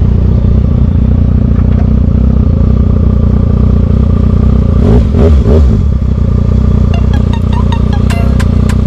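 Motorcycle engine running steadily, heard through a bike-mounted vlog microphone, with a brief rise and fall in the engine note about five seconds in. From about seven seconds on, a regular ticking runs over it, about three ticks a second.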